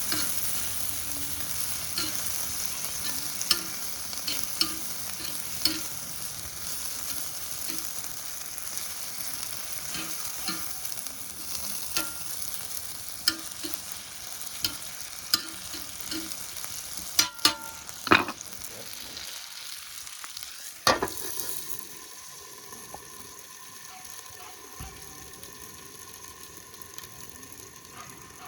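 Chicken neck (seseri) and garlic sizzling in a pan while being stir-fried, the utensil clicking and scraping against the pan about once a second. A few louder knocks come around two-thirds of the way in, after which the sizzle continues more quietly.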